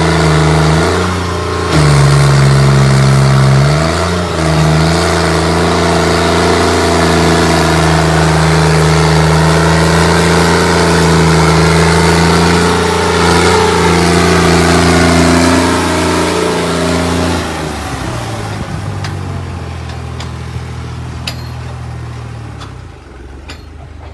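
New Holland tractor's diesel engine running hard at a steady pitch while hauling a trolley. About three quarters of the way through, the engine note drops and it grows quieter, with a few light clicks near the end.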